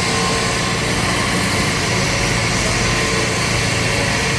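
Excavator's diesel engine running steadily at a dig, under a constant rushing noise.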